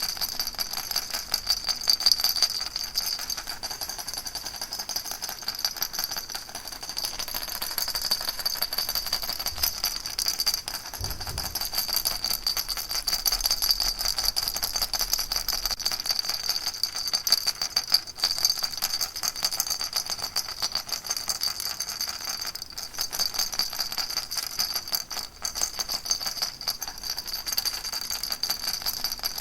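Baby rattle shaken without pause: a fast, dense, even rattling.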